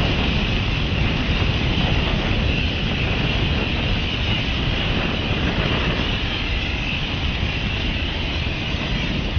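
A large mass of matches burning at once: a steady, dense crackle and rush of flame.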